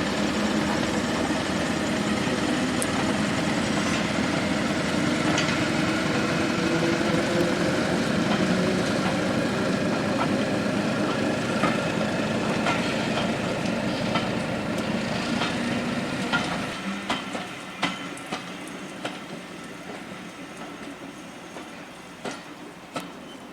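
A train running on the rails: a steady rumble with faint rail clicks that fades away about two-thirds of the way through, leaving scattered sharp clicks.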